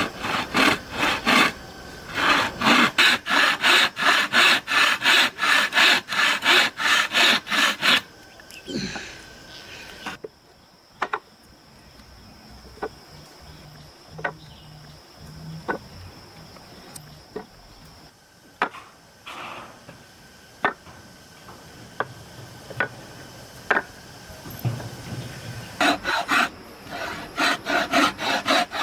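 A hand tool worked on wood in quick, even back-and-forth strokes, about three a second. The strokes stop about 8 s in. Then come about 16 s of scattered light knocks and taps on wood, and the stroking starts again near the end.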